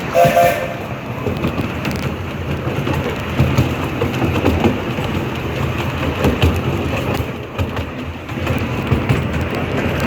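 A small steam locomotive gives a short whistle toot right at the start, then the train runs on with a steady rumble and irregular clatter of wheels and cars.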